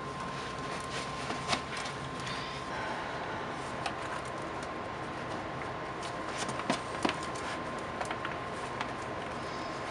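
Steady hiss with a thin, constant high tone, over which come scattered small clicks and rustles of sneakers being pulled on and their laces tied.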